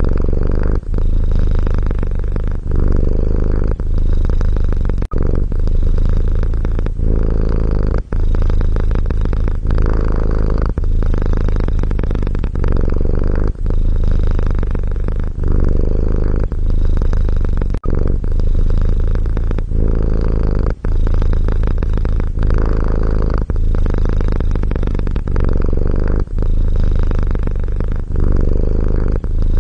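Domestic cat purring steadily, a loud low rumble that swells and breaks off briefly with each breath in and out, roughly every second and a half.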